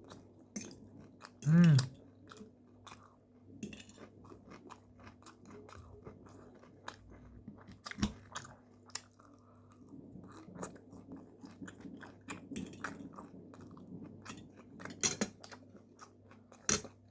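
Close-miked chewing of a mouthful of grilled chicken breast and salad, with crisp crunches and wet mouth clicks. A short hummed voice sound comes about a second and a half in, and a few louder sharp cracks come near the end.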